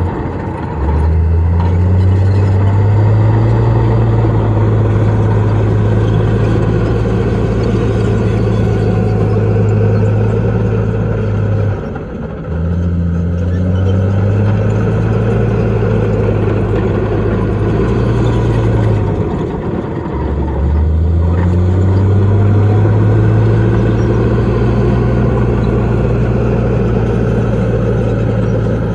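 Heavy diesel engine of earthmoving machinery running under load. Its pitch drops briefly three times, about a second in, near twelve seconds and near twenty seconds, and each time climbs back and holds steady.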